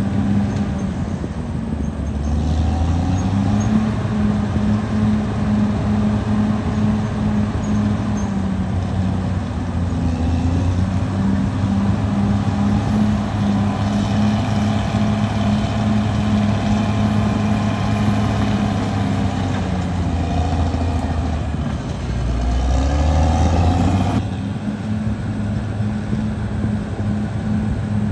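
Caterpillar D6R XL bulldozer's diesel engine running steadily under load, its pitch shifting a few times as the revs change. About 22 seconds in the revs climb, then drop back abruptly about two seconds later.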